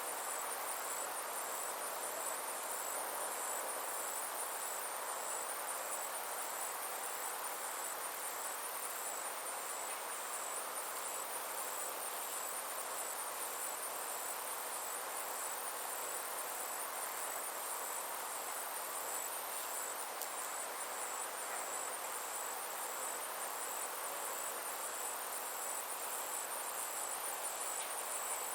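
Summer insects, crickets or similar, keeping up a steady, high-pitched pulsing trill, over a soft, even hiss of the outdoor background.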